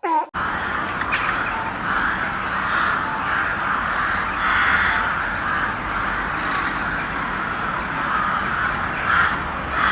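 A continuous harsh din of many birds calling at once, rising and falling slightly in surges.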